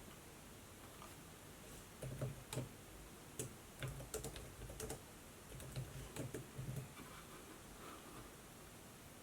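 Typing on a laptop keyboard: irregular runs of soft key clicks from about two to seven seconds in, over a faint steady hiss.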